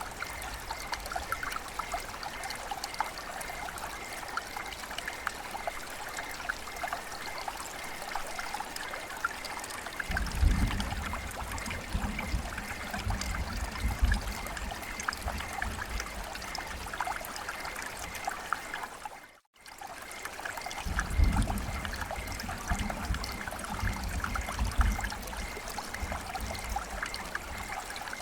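Steady rain with trickling, running water, full of small drip ticks. A low rumble comes in twice, about ten seconds in and again about twenty-one seconds in, and the sound cuts out for a split second just before the second rumble.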